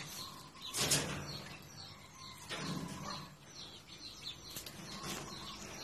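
Small birds chirping faintly throughout, with brief rustling noises about a second in and again near the middle.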